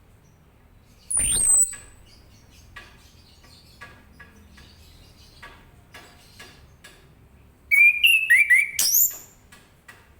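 Orange-headed thrush singing. About a second in comes one loud high whistle that sweeps up and then falls. Faint short notes are scattered through the middle, and near the end comes a longer, loud, varied phrase of quick warbled notes and high sweeps.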